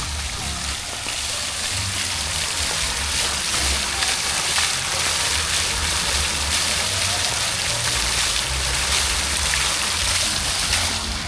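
Heavy rain falling steadily, a dense hiss with scattered drop ticks and a low rumble underneath.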